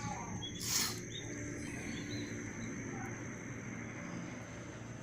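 Outdoor background: a steady high-pitched whine with a few faint bird-like chirps, and a brief rustling burst about a second in.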